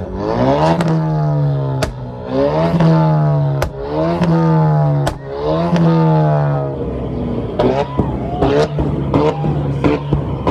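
A performance car engine revving hard in four long surges, each broken off by a sharp crack, then a quick run of short throttle blips.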